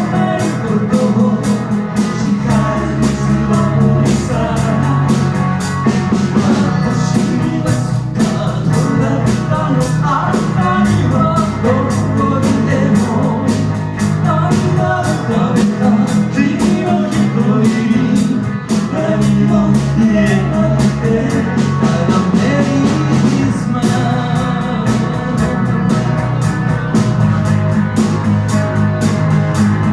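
Live rock band playing: electric guitar over bass and a steady drum beat.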